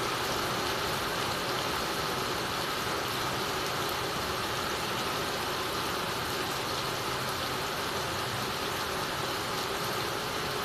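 Heavy rain falling on a clay-tile roof and streaming off the eaves onto wet ground, a steady hiss.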